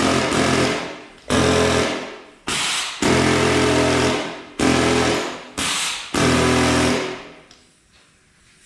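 Pneumatic air hammer chipping hardened concrete off a steel concrete bucket, run in about half a dozen short bursts of rapid hammering, each starting abruptly, until it stops about seven seconds in.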